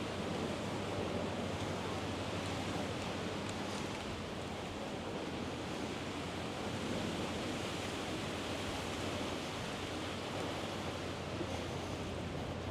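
Steady rushing outdoor ambience, an even noise with no distinct events, like wind and the Thames water.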